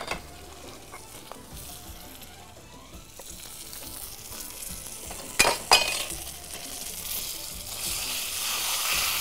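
Pieces of hamour (grouper) frying in a pan of hot oil, sizzling. Two sharp clanks of a utensil on the pan come about five and a half seconds in, after which the sizzling grows louder.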